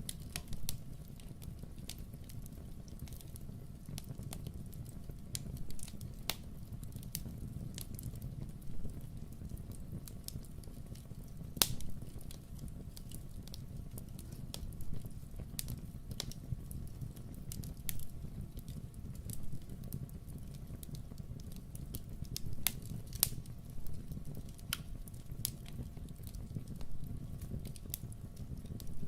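Wood fire crackling in a fireplace, with irregular sharp pops over a steady low rumble; one pop about twelve seconds in is louder than the rest.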